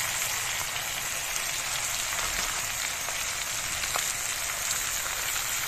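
Chicken and freshly added halved tomatoes sizzling in hot oil in a non-stick frying pan over a high flame: a steady frying hiss with a few faint pops.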